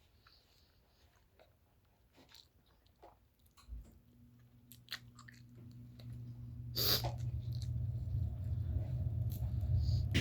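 Close-up chewing and biting of fried and scrambled egg: small wet mouth clicks, with a louder smack about seven seconds in. About four seconds in, a low steady hum comes in and grows louder.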